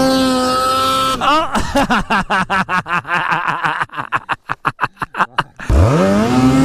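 Snowmobile engine revving hard while the sled is stuck in deep snow. Its note rises and holds, then breaks into rapid pulsing for several seconds, then revs up again and holds high near the end.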